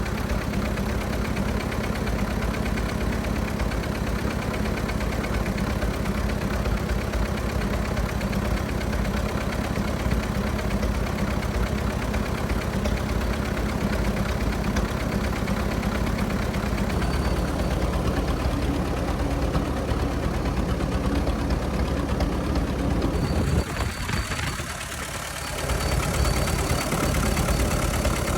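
1924 Fordson Model F tractor's four-cylinder side-valve engine running steadily at a fast idle. Near the end the sound briefly drops and thins out, then comes back.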